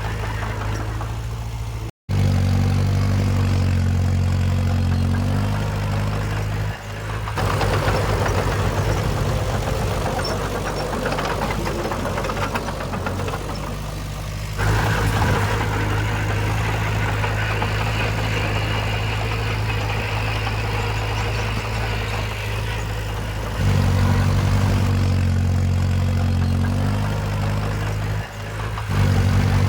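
Diesel engines of heavy earthmoving machinery running steadily. The sound changes abruptly several times, as separate shots are cut together, and drops out very briefly about two seconds in.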